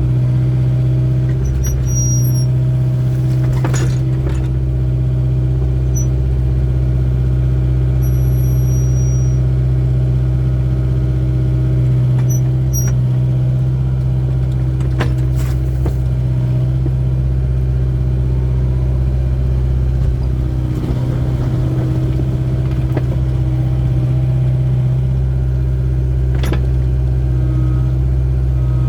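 Excavator's diesel engine running steadily under load, with a steady hydraulic whine. Brief high squeaks come now and then, and a few sharp knocks.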